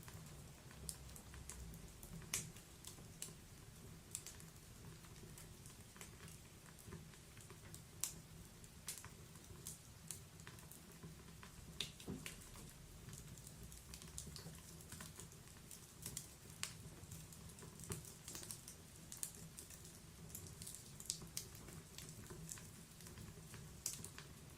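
Wood fire burning in a fireplace, crackling with irregular sharp pops and snaps over a faint low rumble.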